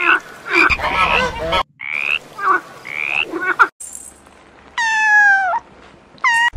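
A frog croaking in short repeated calls, then a kitten meowing twice: one long call that falls in pitch at its end, and a short one near the end.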